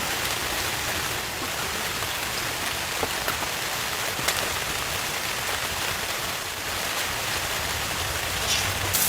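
Steady heavy rain falling, an even hiss of drops with a few separate taps standing out.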